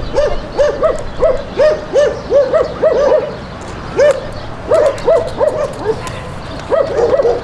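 A dog barking over and over in quick runs of short barks, about two or three a second, with a couple of brief pauses.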